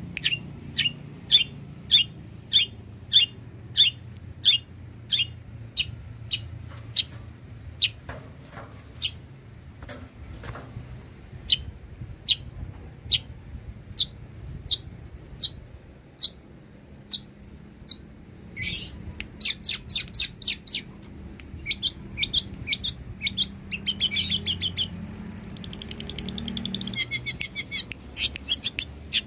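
Long-tailed shrike (cendet) singing: a string of sharp, short, high call notes about two a second, then, after a short pause, quicker chattering runs and rapid trills.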